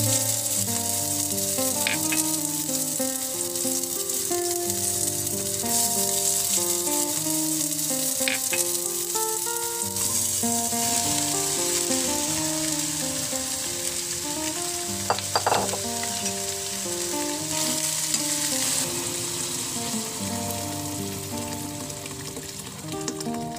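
Garlic and then chicken pieces frying and sizzling in hot oil in a pan, a steady hiss with stirring. Background music with plucked notes plays underneath, and there is one brief sharper noise about fifteen seconds in.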